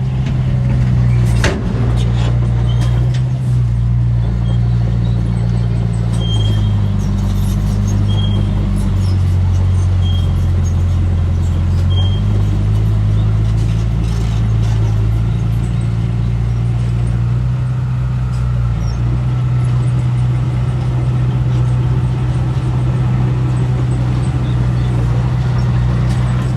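Heavy diesel engine of a construction machine running steadily, its pitch shifting up and down a few times. A sharp knock comes about a second and a half in, and a short high beep repeats every second or two for a few seconds in the middle.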